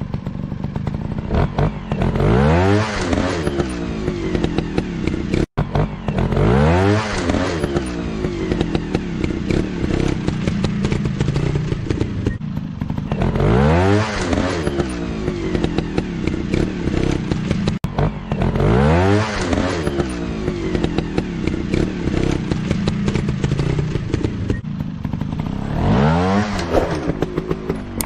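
Motorcycle engine idling and revved five times, each rev a quick rise in pitch that falls back to idle.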